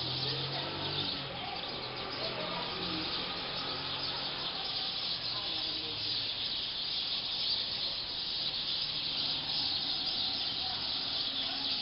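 Dense, steady chattering of a large flock of black birds settling in to roost in a tree.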